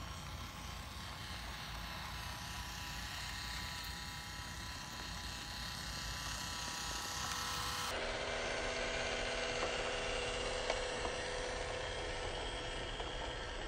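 New York City Subway A train running, its electric traction motors giving a steady whine over a low rumble. The sound changes abruptly about eight seconds in.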